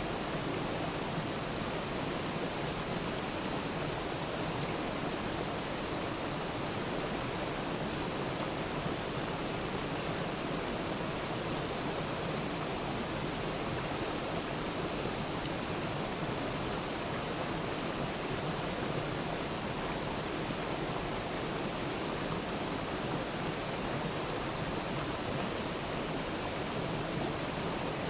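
Waterfall, water falling and splashing in a steady, even rush.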